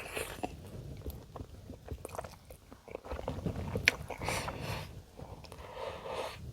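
Close-miked chewing and biting of food, with wet mouth sounds and many small clicks; one sharp click stands out a little before four seconds in.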